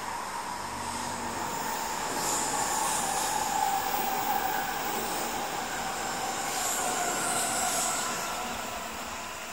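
N700 series Shinkansen bullet train running past on an elevated track: a steady rush of wheel and air noise with a whine that slides slightly lower in pitch, growing louder a couple of seconds in and fading near the end.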